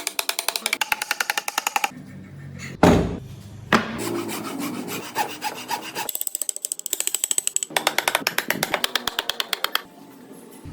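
Hand scraping on wood: fast, even back-and-forth strokes of a rasp, file or sandpaper, about eight a second, in separate runs broken by cuts. Two sharp knocks come about three and four seconds in.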